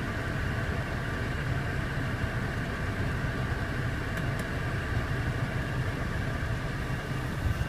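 Steady low hum in the cabin of a 2014 BMW 535i idling, its 3.0-litre turbocharged inline-six running, with a couple of faint ticks about four seconds in.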